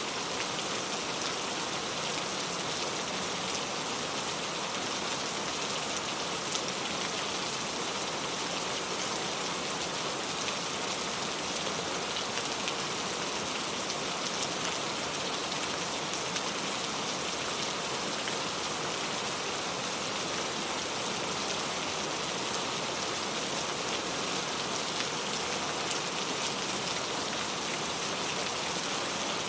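Steady rain falling on surfaces: an even hiss with fine scattered drop ticks.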